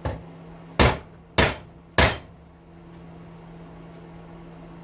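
Hammer blows on a rivet-removing tool, driving out a rivet that holds a small electric motor's brush holder: one lighter tap, then three hard metal strikes a little over half a second apart.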